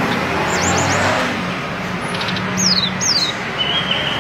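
Hill blue flycatcher singing short, clear whistles that slide downward in pitch, a few just under a second in and two more past the middle, ending on a held note, over a steady background of traffic noise.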